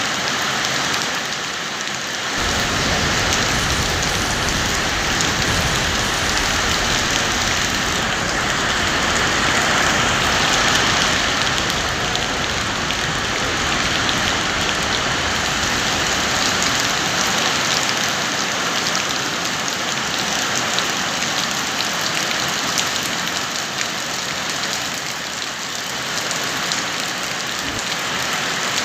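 Heavy rain falling steadily, a dense even hiss of rain on surfaces. A low rumble underlies it from about two seconds in until a little past halfway.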